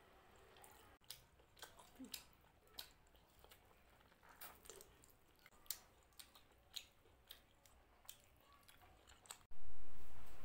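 Close-up chewing of mutton curry and rice, with a run of short mouth clicks, several a second. About nine and a half seconds in, a much louder steady low background noise starts abruptly.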